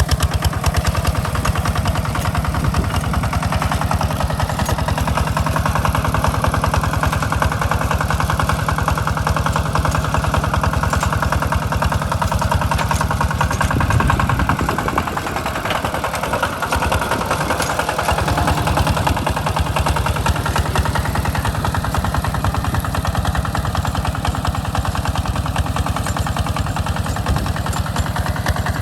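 Engine of a two-wheel walking tractor running steadily while plowing a rice paddy, with rapid, even firing pulses. About halfway through, its note shifts and dips briefly as the load or throttle changes, then settles again.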